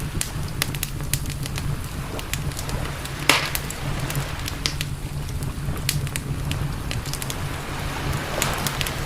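Wood campfire crackling, with many sharp pops and snaps scattered through, the loudest a third of the way in. A few short hissing swells and a steady low rumble run underneath.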